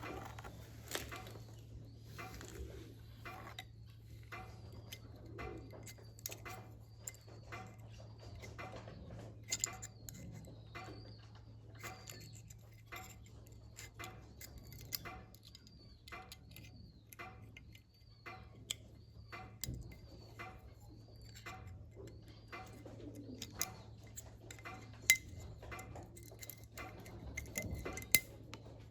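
Small metal parts and tools clinking and tapping irregularly, with a short high chirp repeating about once a second and a steady low hum underneath.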